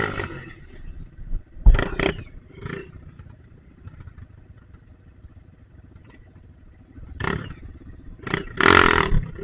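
Off-road motorcycle engine running at low speed, with several short loud bursts of revving and clatter.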